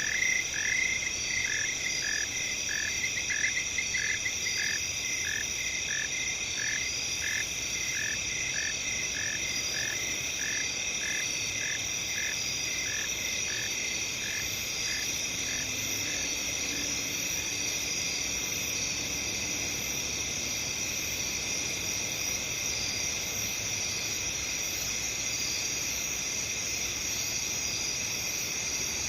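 Night field chorus of crickets, a steady high-pitched trill throughout. Over it a lower chirping call repeats about twice a second for the first half, then fades out.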